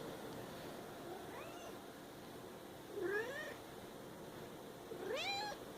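Female cat in heat calling: a faint meow about a second in, then two louder meows that rise and fall in pitch, about two seconds apart.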